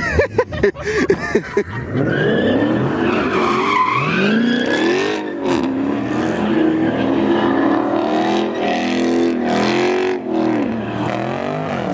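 Car engine revved hard in a burnout with tyres squealing: sharp, choppy revs for the first two seconds, then a sustained high-revving note that rises and falls.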